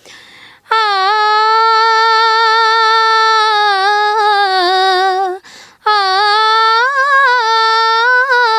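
A young woman singing unaccompanied, holding two long, wavering notes in a Hindi film-song melody, with a quick breath between them about halfway through.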